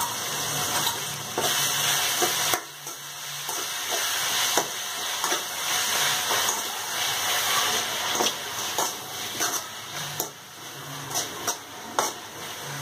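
Chopped onions, tomatoes and green chillies frying in oil in a metal kadai with a steady sizzle, while a metal ladle stirs them and scrapes against the pan, giving scattered clicks.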